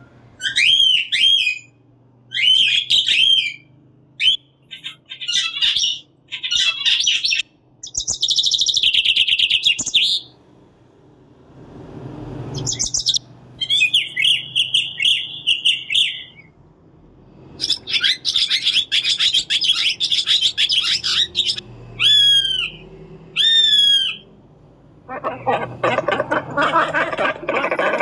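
Recorded bird calls played one after another from a bird-sounds app, a few seconds each with short gaps: cockatiel chirps first, then other birds' songs including a song thrush, and near the end the lower, rougher calls of a great cormorant.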